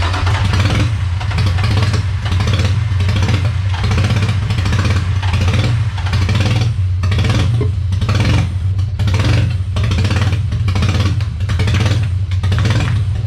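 Nissan VQ35DE V6 running loud and unevenly through open headers just after starting, its idle surging. The owner puts the rough running down to many vacuum leaks.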